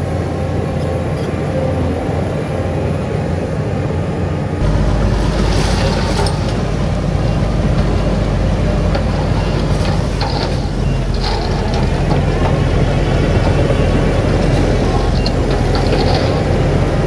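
Diesel engines of heavy earthmoving machinery running steadily, with short hissing bursts now and then. The sound changes abruptly and grows deeper about four and a half seconds in.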